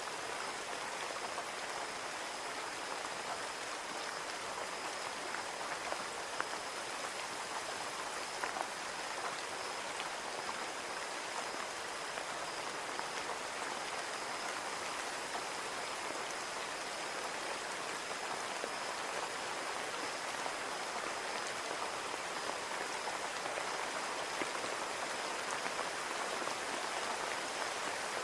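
Steady rain pattering against a window pane, an even hiss of drops with scattered individual taps. A faint steady high tone runs underneath.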